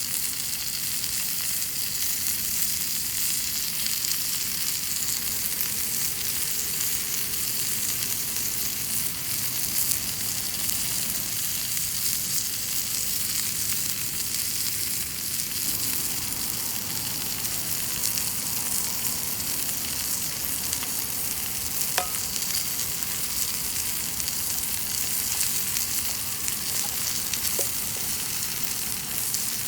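Chicken thigh frying in a cast-iron skillet, a steady sizzle, with one brief click about two-thirds of the way through.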